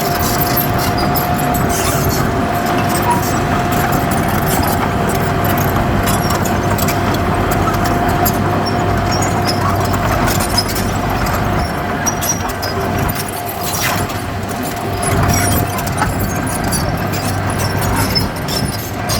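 Heavy diesel earthmoving machinery running steadily under work, with a continuous high whine over the low engine hum and scattered metallic clicks and clanks.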